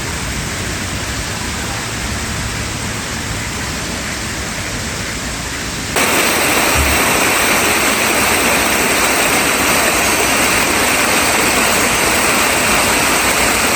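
Steady rush of falling water, a constant even hiss across all pitches. It turns abruptly louder and brighter about six seconds in.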